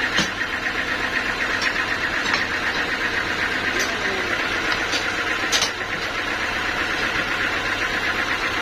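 Sawmill machinery running steadily with a fast, even buzz, and a few short sharp knocks.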